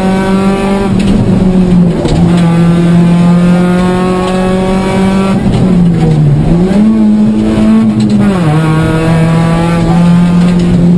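Four-cylinder engine of a Toyota Corolla 1.6 rally car, heard from inside the cabin, running hard at high revs on a rally stage. The note holds steady with short dips at lifts or gear changes about two and six seconds in, then climbs to a higher held note and drops back about eight seconds in at an upshift.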